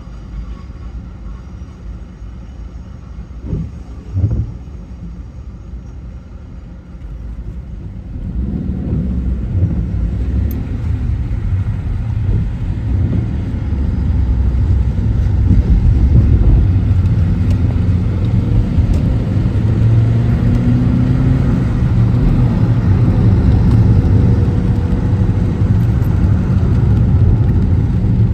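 Car driving, with steady low road and engine rumble. The noise grows clearly louder about eight seconds in and again midway as the car picks up speed, with the engine pitch rising and falling. Two short thumps come a few seconds in.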